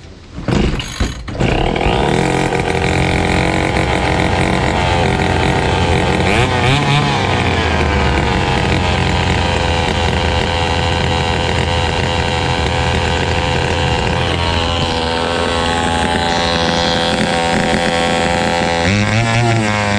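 Fubag FPT 52 petrol trimmer's two-stroke engine, pull-started and catching within about a second and a half, then running steadily with its carburettor refitted after being flooded with fuel. Its pitch rises and falls briefly about seven seconds in and again near the end.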